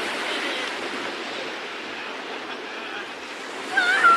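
Sea surf washing on the shore, a steady rushing hiss. Near the end comes a short, wavering high cry.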